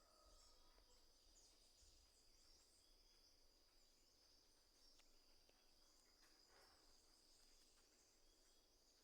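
Very faint outdoor ambience: a steady high-pitched insect drone with scattered short bird chirps over it.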